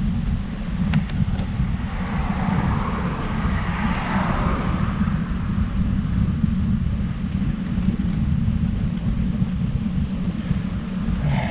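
Steady wind rumble on the microphone of a camera riding on a moving road bike. A passing vehicle swells and fades a few seconds in.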